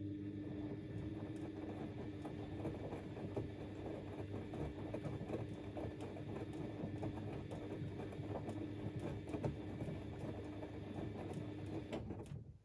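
Siemens Extraklasse XLs 140 A front-loading washing machine turning its drum in the wash phase. A steady motor hum runs under the irregular thuds of wet laundry tumbling. It starts up and stops suddenly near the end as the drum pauses.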